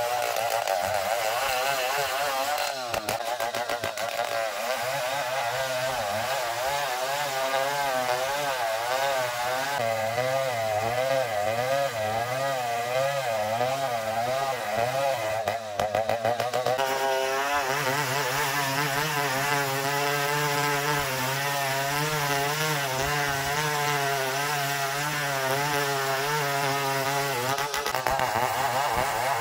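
Chainsaw cutting a log of ulin (Bornean ironwood), the engine running hard with its pitch wavering up and down as the chain bites into the wood. About sixteen seconds in, the note breaks briefly, then settles steadier.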